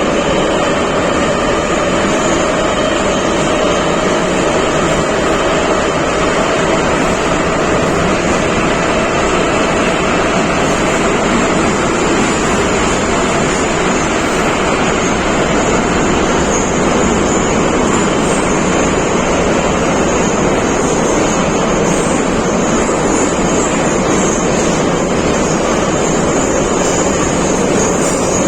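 Interior of an 81-714 metro car running at speed through a tunnel: a loud, steady rush and rumble of wheels and air. A faint whine drifts slightly lower in pitch early on.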